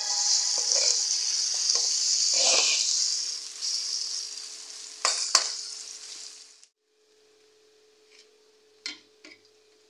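Onion-tomato curry sizzling and spitting in hot oil in a pan while a spatula stirs and scrapes it, with a few sharp scrapes. The sizzle cuts off abruptly about two-thirds through, leaving a faint hum and two light clinks of a spoon on a glass plate near the end.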